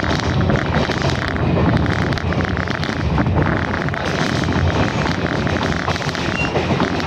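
Passenger train in motion, heard from aboard the coach: a steady rumble of wheels on the rails with rapid rattling throughout.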